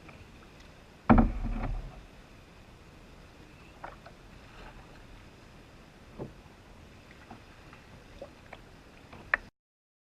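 Canoe out on the water with paddling knocks: a loud thump about a second in, then scattered light knocks and clicks over a faint background hiss. The sound cuts off suddenly near the end.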